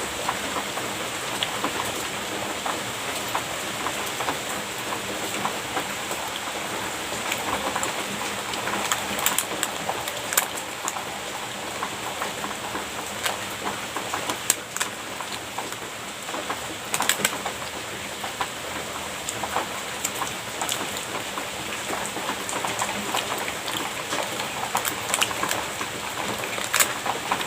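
A person eating soft cream pastry up close: scattered wet clicks and smacks of chewing and mouth sounds over a steady hiss.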